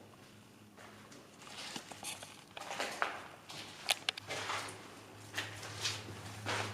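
Irregular footsteps scuffing and crunching across a hard floor, starting about a second in, over a steady low hum that grows louder about four seconds in.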